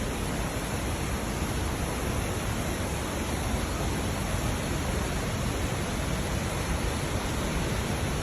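Steady rush of fast-flowing water, an even noise with no breaks or separate splashes.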